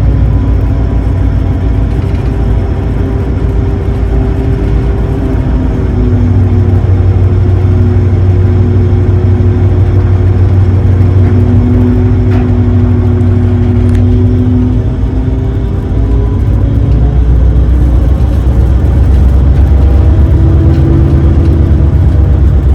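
Engines of the Super Jet high-speed passenger boat running: a loud, steady low hum with engine tones that slowly drift in pitch, easing off briefly about two-thirds of the way through and then building again.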